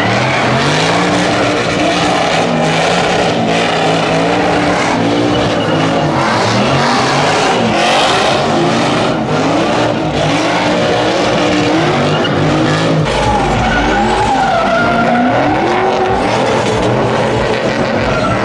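Truck engine revving hard and falling back over and over during a burnout, with tires screeching on the pavement.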